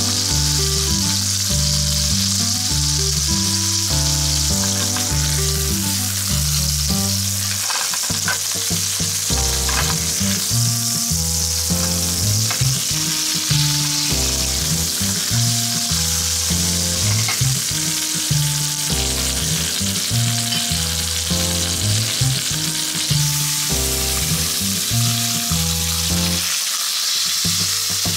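Chicken frying in butter and oil in a frying pan, a steady sizzle, with the pieces handled by a metal slotted spatula and tongs. Background music with a stepped, repeating bass line plays under it.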